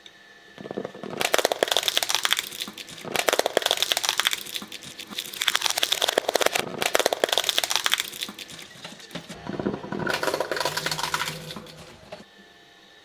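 A shredder's cutters crunching and crackling through material in four long stretches of dense, rapid clicks, with a faint steady hum before and after.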